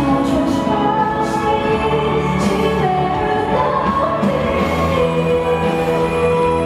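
A woman singing a slow pop ballad to band accompaniment, holding a long note in the second half.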